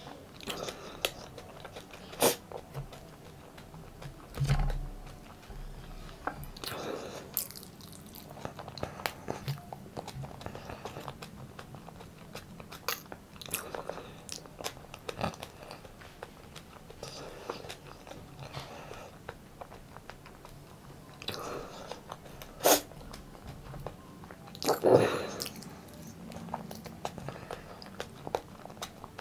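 A person chewing and biting food by mouth, with a few sharp, louder crunches among softer chewing sounds.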